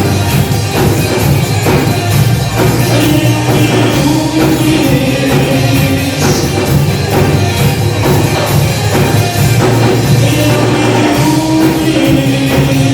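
Live rock band playing an instrumental passage between sung lines, with a steady drum beat.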